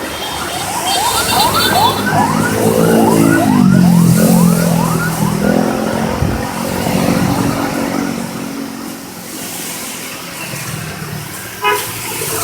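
Vehicle siren yelping in quick rising sweeps, about three a second, for the first six seconds or so, with a lower pitched tone sliding downward beneath it. A short horn toot follows near the end.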